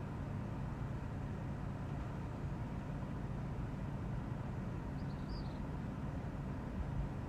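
Strong gusty wind rushing and buffeting the microphone: a steady, deep rumble with a brief faint high chirp about five seconds in.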